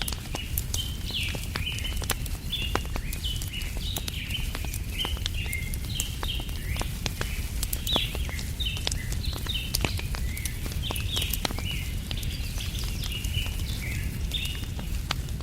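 Wood fire crackling with scattered sharp pops, under a dense, unbroken chorus of small birds chirping. A steady low rumble runs underneath.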